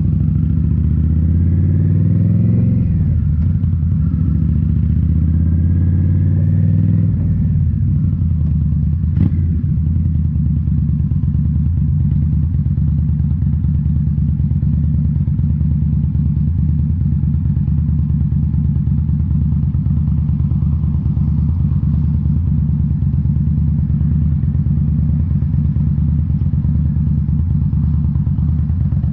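2018 Indian Scout Bobber's V-twin running through Rinehart slip-on mufflers. It rises in pitch and drops back twice in the first seven seconds, as when accelerating through gear changes, then holds a steady pitch, with one sharp click about nine seconds in.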